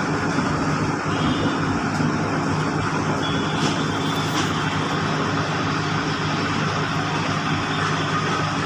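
A Bangladesh Railway diesel train running at a steady pace. The engine drone holds an even pitch under a constant rumble of wheels on the track.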